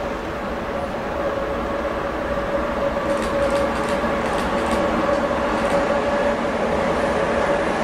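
Freight train of loaded autorack wagons, hauled by a ČD Cargo class 372 electric locomotive, rolling through the station: a steady rumble with a held tone, and faint high metallic ticks about three to five seconds in.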